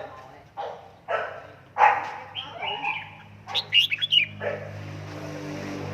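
A dog barking about five times in quick succession, then a red-whiskered bulbul giving a few quick, high chirps about three and a half seconds in.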